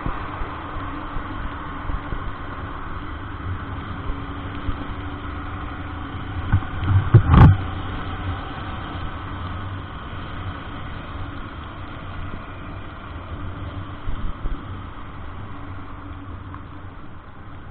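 Motor vehicle engine and road noise, a steady rumble, with one loud sharp knock about seven seconds in.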